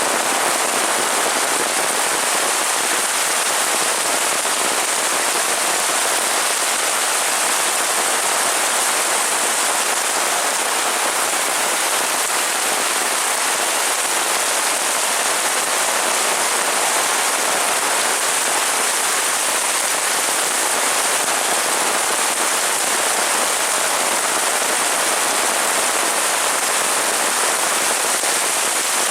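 Heavy rain falling steadily, an even downpour hiss with no lulls.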